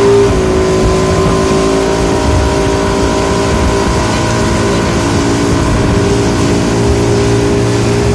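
Motorboat engine running hard and steady. The revs rise briefly at the start, then hold at one even pitch.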